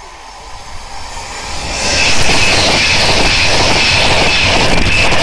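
Virgin Trains East Coast high-speed passenger train approaching and passing close by at speed. It is a rising rush that turns loud about two seconds in, with a steady high whine above the noise of the wheels on the rails.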